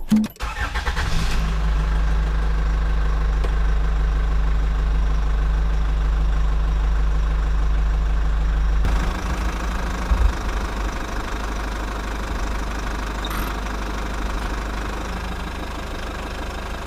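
Tractor engine running steadily at idle, with a shift in its tone about nine seconds in.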